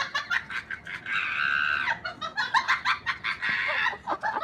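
An animal calling in a quick run of short, sharp, high calls, with one longer drawn-out call about a second in.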